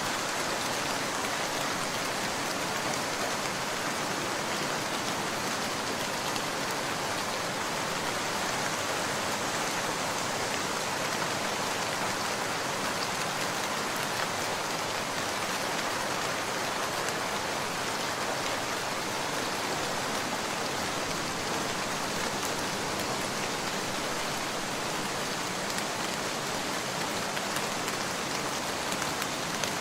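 Steady rain falling, a constant even hiss of drops with no change in strength and no thunder.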